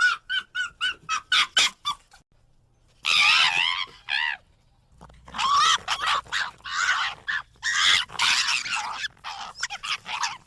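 Fox calls. First comes a quick run of short, high yaps, about five a second. After a short pause come longer wavering screams and whining cries in broken phrases.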